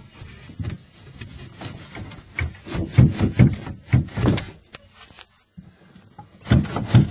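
A portable boat fuel tank being worked out from a tight compartment under the side deck: repeated scraping and rubbing strokes with a few knocks, loudest about three seconds in and again near the end, with a short pause between.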